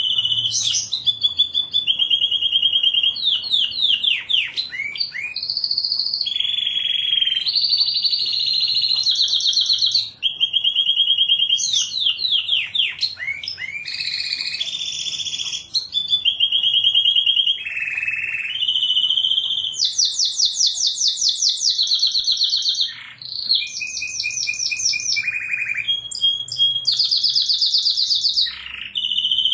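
Domestic canary singing a long unbroken song of fast trills and rolls, switching from one rapidly repeated phrase to the next every second or two, with quick sweeping notes between them.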